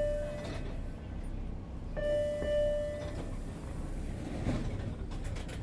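Subway train ambience: a steady low rumble, with an electronic tone held for about a second that sounds twice, and a few light clicks near the end.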